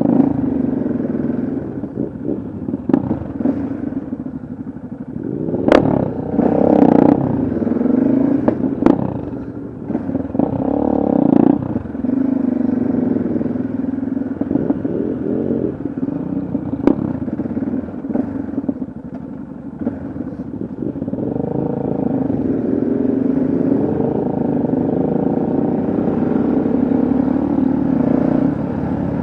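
Yamaha XT660Z Ténéré's single-cylinder engine running under way, its pitch rising and falling with the throttle and gear changes, with a few sharp clicks.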